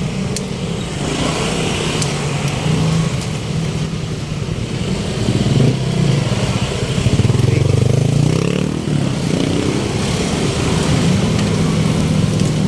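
Motor vehicle engines in street traffic: a steady low engine drone, with one engine revving up in pitch about six to nine seconds in.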